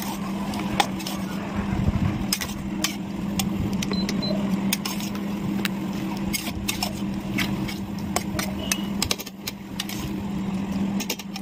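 Marinated chicken pieces frying in oil and ghee in a metal pan, with many sharp crackles of spitting fat over a steady low hum.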